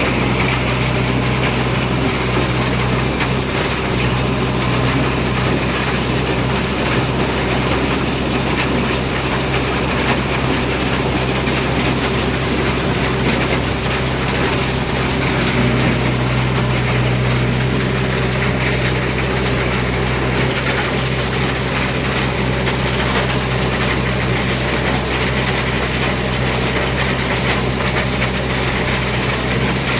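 JCB backhoe loader's diesel engine running steadily with a constant low hum and mechanical clatter.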